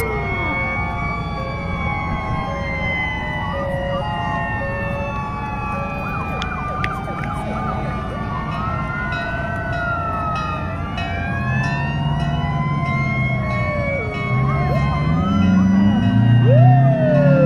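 Several fire truck sirens wailing at once, their rising and falling pitches overlapping, over a low engine rumble. From about two-thirds of the way through, deep steady horn-like tones join in and the sound grows louder.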